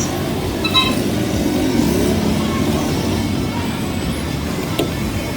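Motor vehicle engine running with a steady low rumble, with a brief high tone about a second in.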